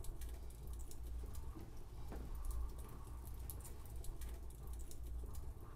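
Light rain faintly pattering against a windowpane in scattered, irregular taps, over a low steady rumble.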